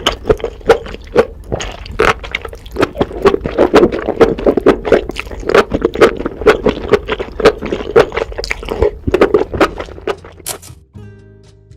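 Close-miked eating of spicy enoki mushrooms: rapid wet chewing and slurping clicks, stopping about a second before the end.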